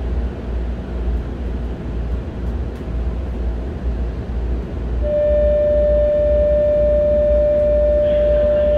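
Steady low hum of a stopped electric commuter car's onboard equipment, heard inside the car with its doors open. About five seconds in, a loud steady electronic tone at a single pitch starts and holds for about four seconds.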